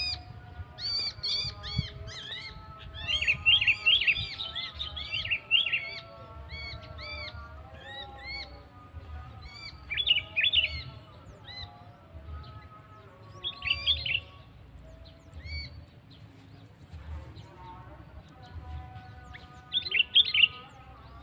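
Birds calling: runs of short, arching whistled notes repeated many times, with denser bursts of chirping about three to five seconds in, around ten and fourteen seconds, and again near the end.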